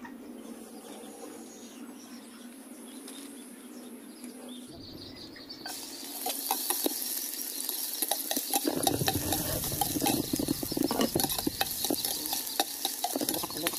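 Chopped garlic frying in hot oil in a stainless steel pot, sizzling steadily, while a ladle stirs it, scraping and clinking against the pot. The sizzle comes in about six seconds in.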